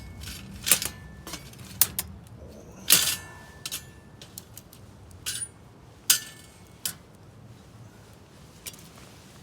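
A string of irregular sharp clicks and knocks, about seven of them with the loudest about three seconds in. A few carry a brief faint metallic ring.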